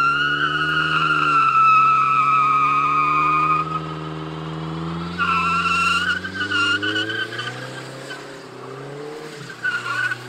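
Car tyres screeching under wheelspin while the engine revs hard. The squeal drops out for a moment about three and a half seconds in, picks up again, fades, and returns near the end.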